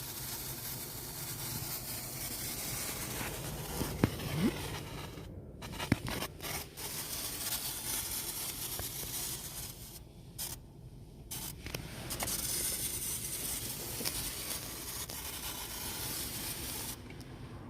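Static hiss and crackle from a VW Golf Mk7's MIB infotainment unit through the car speakers, cutting out abruptly several times, with a few sharp clicks about four and six seconds in. It is a fault in the unit that a firmware update cured.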